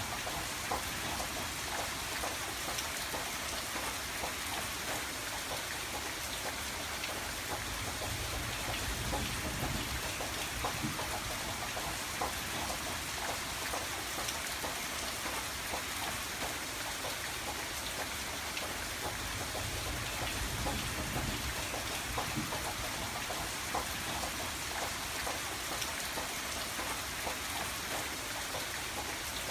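Steady rain falling against a window, a constant hiss of rainfall with many small drop ticks.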